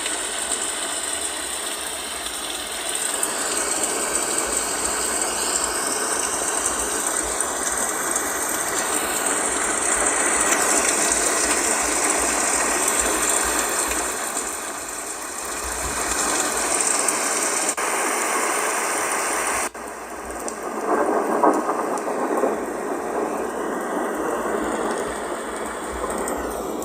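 Magicteam white noise sleep machine playing a steady, crackly noise sound through its speaker, cutting abruptly to a different noise sound about twenty seconds in.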